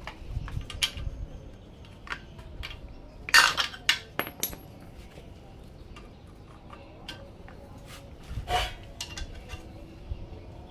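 Metal clinking and clanking of hand tools and engine parts being handled, in scattered sharp strikes, the loudest cluster about three and a half seconds in and another near eight and a half seconds.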